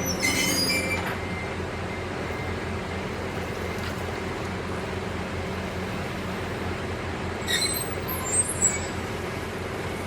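Truck engine running steadily, with a few short high-pitched clinks about half a second in and again near the end.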